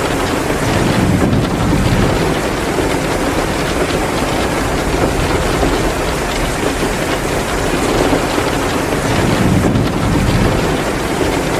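Steady downpour of heavy rain, with wood fire crackling mixed in. The rain swells a little about a second in and again near the end.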